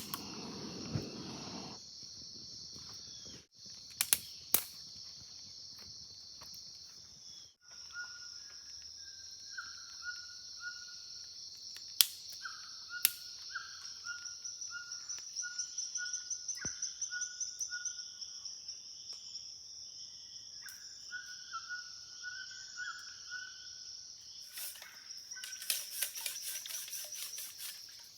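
Rainforest ambience: a steady high-pitched drone of insects, with a bird repeating short falling whistled notes through the middle and scattered clicks. The drone drops out briefly twice in the first few seconds, and near the end a denser, rapid pulsing buzz sets in.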